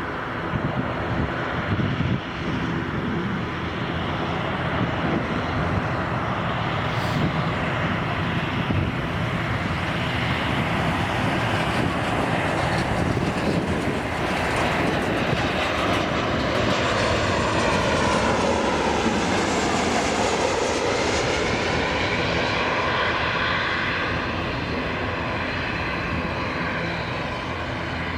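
Jet airliner's engines passing close by, a continuous loud rumble with a whining tone that sweeps down and back up as the aircraft goes past, loudest about two-thirds of the way through.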